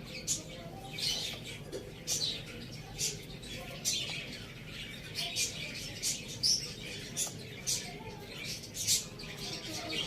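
Small birds chirping: short, sharp high chirps, irregular, about one or two a second.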